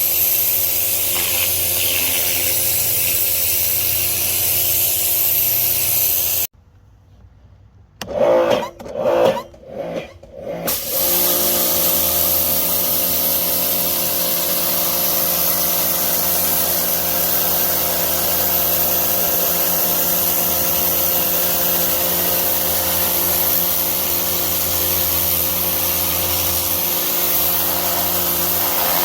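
Pressure washer running and spraying with a steady motor drone under the hiss of the water jet. About six seconds in it stops abruptly. A few short surges start up about two seconds later, and then it runs steadily again.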